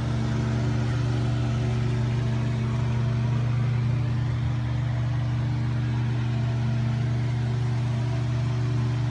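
A machine's steady low hum at one constant pitch.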